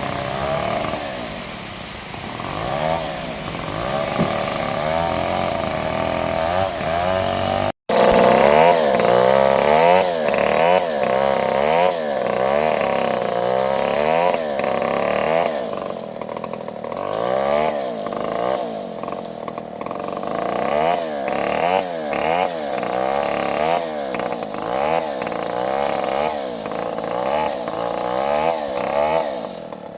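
Bandsaw sawmill running and sawing through a log, a loud steady machine whine that rises and falls in pitch about once a second. The sound cuts out for an instant about eight seconds in.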